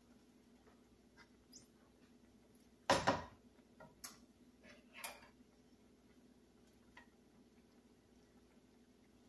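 A few short knocks and clinks of a kitchen utensil against cookware, the loudest about three seconds in and two lighter ones over the next two seconds, over a faint steady hum.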